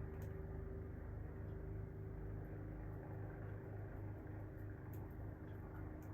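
Heavy engine of outdoor construction machinery running steadily: a low rumble with a fast, even throb and a steady hum.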